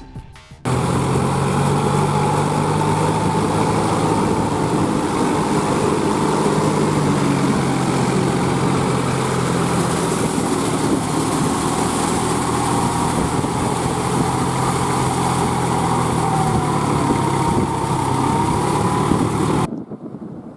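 New Holland 4710 tractor's diesel engine running steadily, with a faint high whine over the engine note. It starts abruptly about a second in and cuts off shortly before the end.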